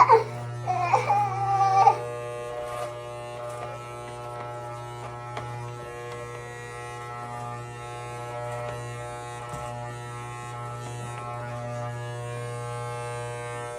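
Electric hair clippers buzzing steadily as they cut a child's hair. For the first two seconds a child's voice wavers over the buzz.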